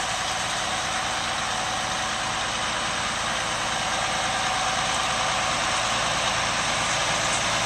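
Versatile 2375 four-wheel-drive tractor's Cummins M11 six-cylinder diesel running steadily, getting slightly louder near the end.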